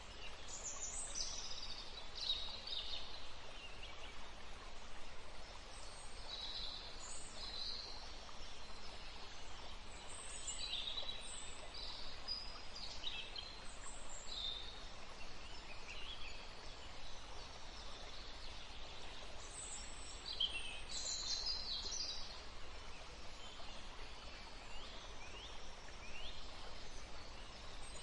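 Small forest birds chirping and calling, with many short, high notes and quick falling sweeps scattered throughout, over a steady background hiss.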